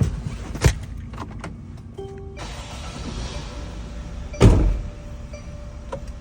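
Motorhome cab sounds: a couple of sharp clicks, a short beep about two seconds in, then a steady hiss, with a heavy thud like a vehicle door shutting about four and a half seconds in.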